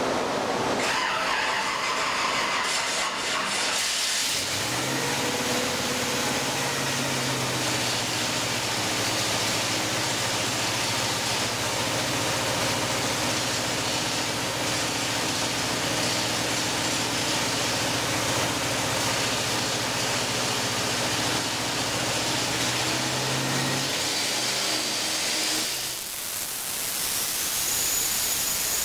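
Twin-turbocharged Chevrolet ZZ502 big-block V8 running loud on an engine dyno, held at a steady speed for about twenty seconds. It then backs off. Near the end a loud rush of air noise is left, with a thin high whistle over it.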